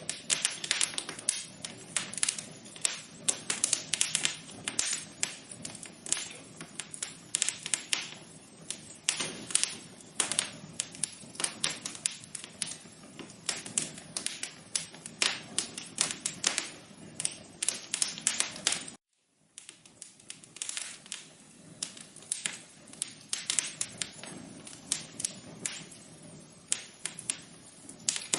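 Wood fire crackling: irregular sharp pops and snaps over a low hiss, cutting out completely for about half a second around two-thirds of the way in.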